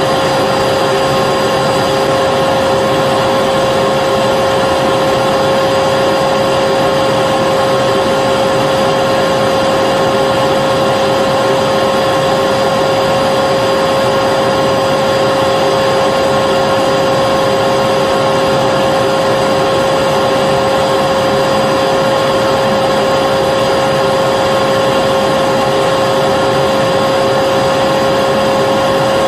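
Vacuum cleaner running continuously: a steady rushing of air with an even motor hum, unchanging in pitch and level.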